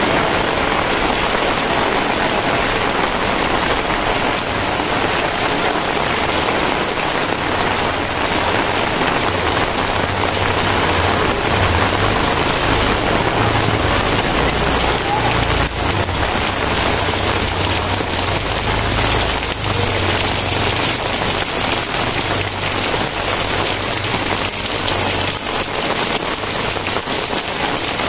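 Heavy rain pouring down steadily, a dense patter of drops on surfaces. A low rumble runs underneath through the middle stretch.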